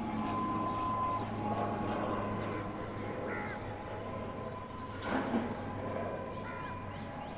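Steady drone and whine of a Dornier 228's twin turboprop engines as it comes in to land, with crows cawing several times over it and one louder call about five seconds in.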